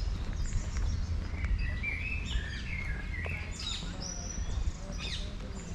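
Songbirds singing quick chirps and short whistled notes, over a low rumble of wind on the microphone.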